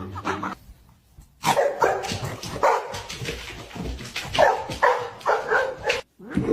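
Dog barking and yipping in a string of separate calls, after a short silence.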